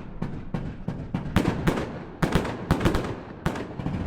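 Fireworks going off in quick succession: about a dozen sharp bangs, some in close pairs, with a low rumble between them.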